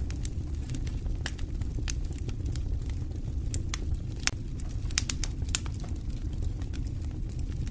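Wood fire burning in an open fireplace: a steady low rumble of the flames with frequent sharp, irregular crackles and pops.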